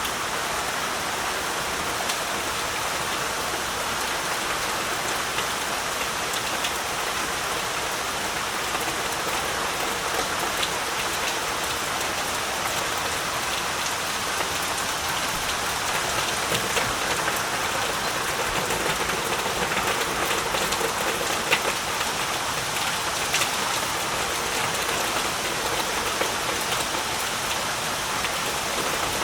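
Heavy rain falling steadily, an even hiss with scattered sharper drop impacts throughout.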